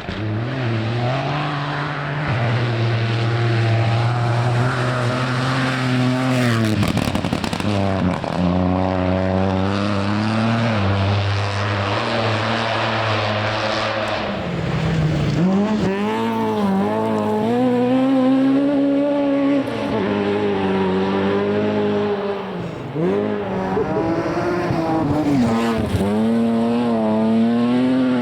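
Rally car engine revving hard. A steady lower note for the first few seconds gives way to the pitch climbing and dropping repeatedly as it accelerates and shifts through the gears, over a broad hiss.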